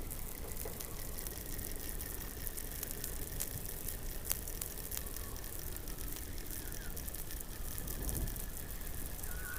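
Underwater sound from a hydrophone beneath the Antarctic ice: a low rumble with a steady crackle of sharp clicks, and a faint high tone that sinks slowly in pitch, with a few short gliding chirps near the end.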